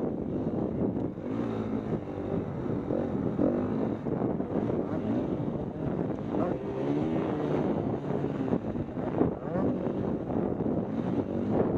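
KTM 250 EXC-F dirt bike's single-cylinder four-stroke engine revving up and easing off again and again as it is ridden, with wind rushing over the microphone.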